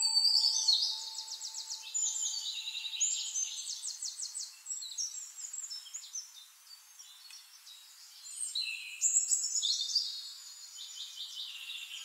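Several birds calling together: rapid high trills, chirps and short falling notes overlapping, thinning out around the middle and picking up again near the end.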